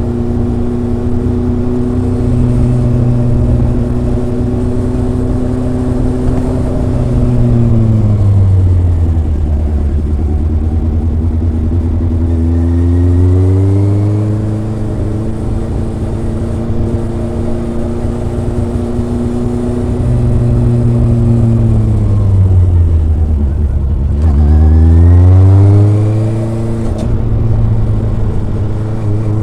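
Kawasaki ZRX inline four-cylinder engine and exhaust under way. It runs at steady revs, then the revs drop and climb again, twice, with the loudest climb near the end.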